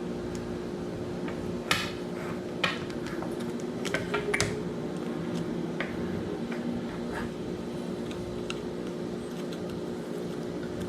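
Small metal reel parts clicking and tapping as a spinning reel is worked apart by hand, a handful of sharp clicks scattered over several seconds. A steady fan-like hum runs underneath.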